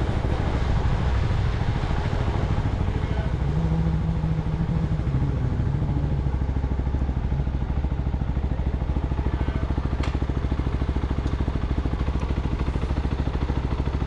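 CFMoto 250NK single-cylinder engine running steadily through its stock exhaust, a new bike still in break-in, with an even low-pitched pulse throughout.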